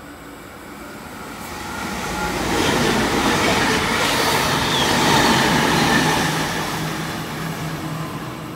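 Sydney Trains double-deck electric train running through a station at speed: the rail noise builds as it approaches, is loudest as the cars pass about three to six seconds in, then fades.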